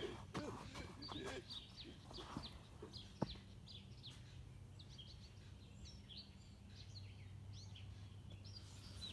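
Birds chirping outdoors: many short, quick, high chirps, faint, with one sharp click about three seconds in.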